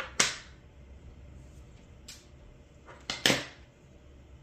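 Small hard parts clacking as magnets, washers and tools are put back into a 3D-printed plastic accessory box: two sharp clacks about three seconds apart, with a faint click between.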